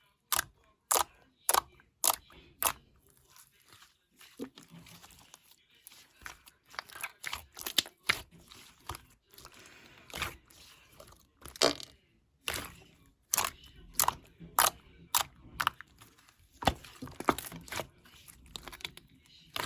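Sky-blue iClay lightweight modelling clay being squeezed and kneaded by hand, giving off irregular sharp crackles and clicks, some in quick runs.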